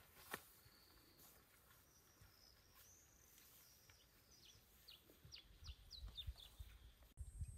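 Near silence outdoors, broken by a bird calling: a quick run of about eight short, high, falling chirps from about four to six and a half seconds in. Faint low rumbling on the microphone near the end.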